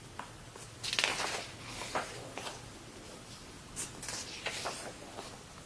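Faint paper rustling about a second in, followed by a few light taps: a picture book's pages being handled and turned.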